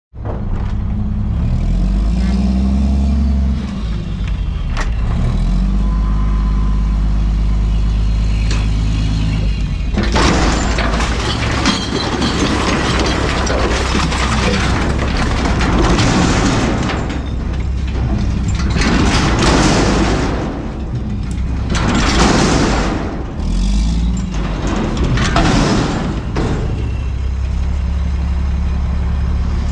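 Front-loader garbage truck's diesel engine running, its pitch rising and falling as it revs. About ten seconds in, a loud rushing, clattering noise comes in several surges as refuse falls into the hopper, then the engine settles to a steady hum near the end.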